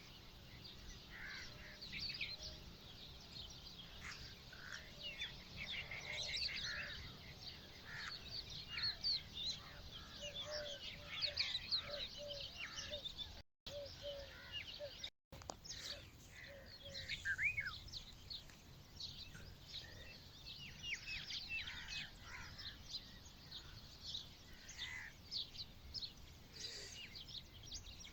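Many small birds chirping and calling at once, a dense chorus of short, overlapping high chirps, with a lower repeated call joining in around the middle. The sound cuts out briefly twice about halfway through.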